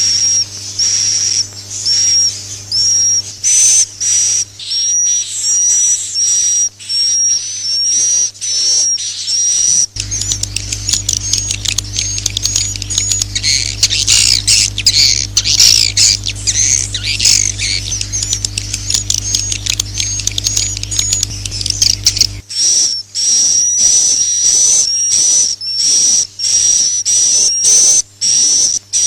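Swiftlet 'inap' lure call recording: short high swiftlet chirps repeated about one or two a second. From about ten seconds in to about twenty-two seconds a denser twittering chorus takes over, with a low steady hum beneath it.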